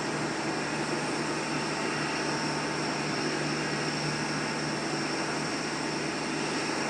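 Steady mechanical drone with a constant low hum and a faint high whine, unchanging throughout.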